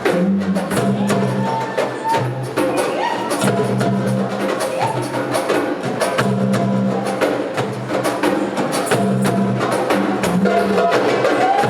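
Several hand drums, darbukas among them, playing a fast, dense rhythm together over music with a repeating low bass pattern.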